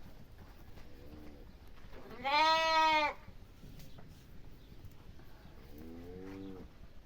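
A farm animal bleating three times: a faint short call, then a loud call about a second long that rises and falls in pitch, then a quieter call near the end.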